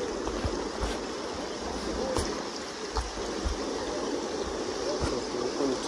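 Kenai River current rushing steadily along the bank, with a few brief low knocks.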